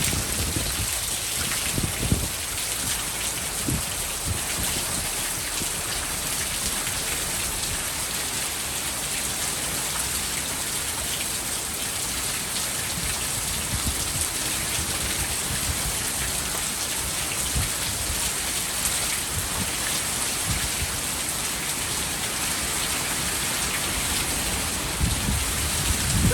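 Heavy rain pouring steadily during a thunderstorm, with a few short low thuds about two seconds in and again near the end.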